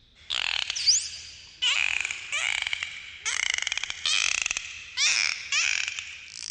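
Dolphins calling: a quick series of about eight buzzy pulsed squawks with gliding whistles, one sweeping sharply upward about a second in.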